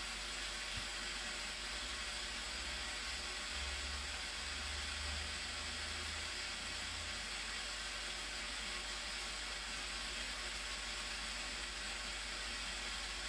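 Steady, unbroken rush of water falling at a waterfall: an even hiss that does not change.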